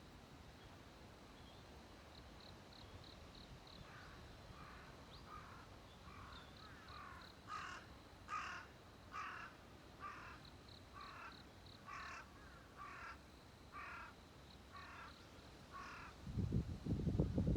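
A bird giving a long run of about fifteen harsh calls, roughly one every 0.7 seconds, starting about four seconds in, over faint short runs of quick high chirps. A loud low rumble comes in near the end.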